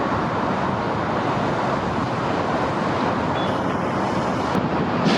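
Steady wash of city traffic noise, even throughout with no siren, and a small click near the end.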